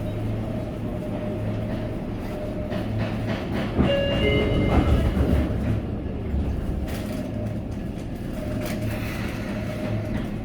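Sotetsu commuter train running, heard from inside the carriage: a steady low rumble and hum of wheels on rail, with a louder stretch and a few brief high tones about four seconds in.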